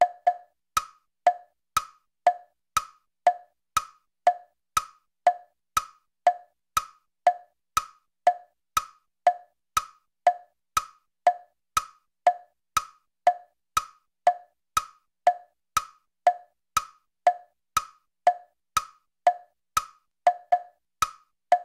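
Clock ticking in a steady tick-tock, about two ticks a second, sharp and evenly spaced.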